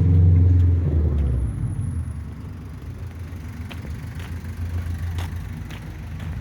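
A car passing on a nearby road: its engine and tyre hum is loudest at the start and fades within about a second and a half as it moves away, leaving a low steady traffic rumble.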